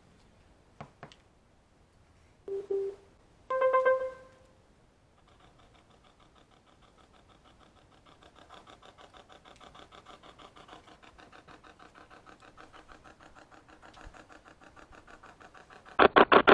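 A few faint clicks and two short beeps, then a white noise spirit box starts up: a rapid, even pulsing of chopped radio noise, faint at first, slowly growing and turning much louder near the end.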